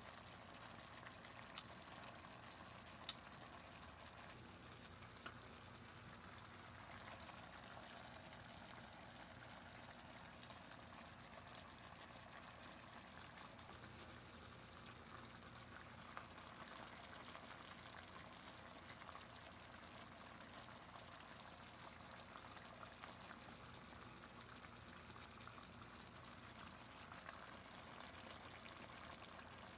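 Chicken thighs simmering in gravy in a pan: a faint, steady bubbling hiss, with a couple of sharp clicks in the first few seconds.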